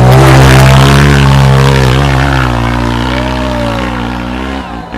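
Trail motorcycle engine revving hard on a steep climb, its pitch rising and falling as the throttle is worked, loudest at first and then fading gradually as the bike pulls away.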